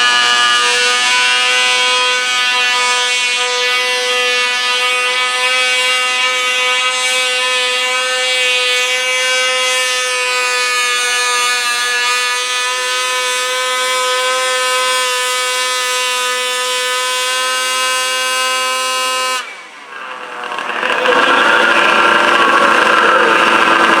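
Modified garden tractor pulling engine held at full throttle, a loud steady high-pitched drone that cuts off suddenly about twenty seconds in. After a brief dip it comes back as a rougher, noisier running.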